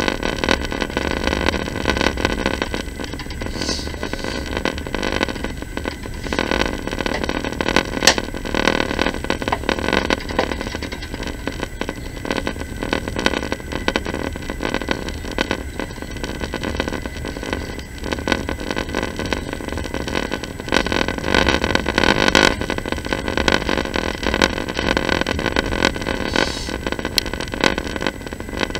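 Passenger train running, heard from inside the carriage: a steady rumble and rush of wheels on the rails, with an occasional sharp click or knock, the sharpest about eight seconds in.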